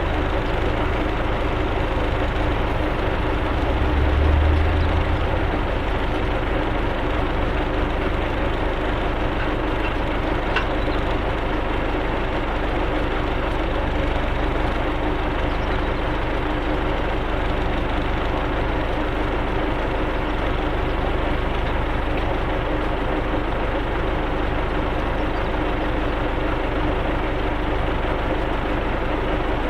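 Tractor engine running at a steady speed, a constant drone with a brief low swell about four seconds in.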